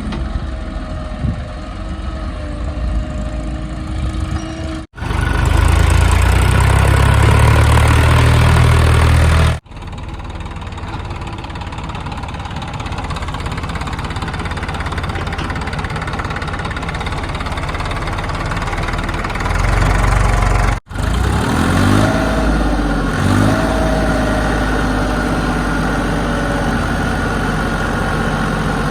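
Diesel engines of heavy machinery running, across several clips that cut off abruptly. The loudest stretch is a deep rumble about five to ten seconds in, and about two-thirds of the way through an engine revs up twice.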